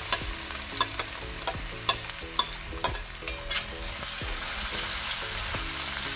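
Sliced garlic and ginger sizzling in hot oil in a metal pan, with a steel ladle scraping and clicking against the pan as it is stirred.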